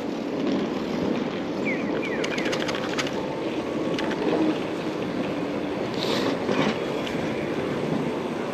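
Wind rushing over a bike-mounted action camera's microphone while riding, with light clicks and rattles from the bike about two to three seconds in.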